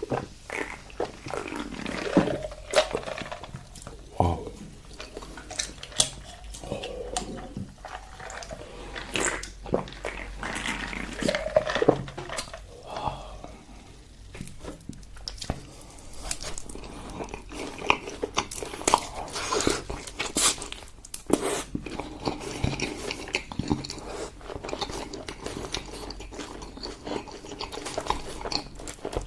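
A person chewing and biting food close to the microphone: irregular clicks and smacks throughout.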